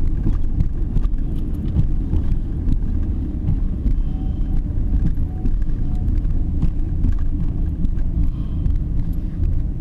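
Vehicle driving at a steady pace: continuous low engine and road rumble with no change in speed.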